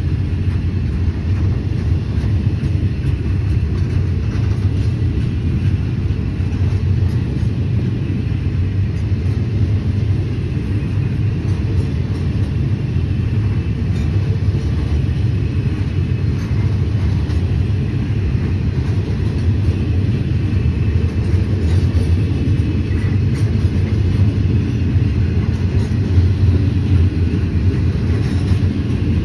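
Steady low rumble of a freight train running, with no clear changes in level.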